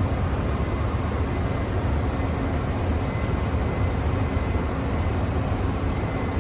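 Boeing 747 cockpit noise in the climb: a steady, even rush of airflow and engine noise, heaviest in the low rumble, with no breaks or changes.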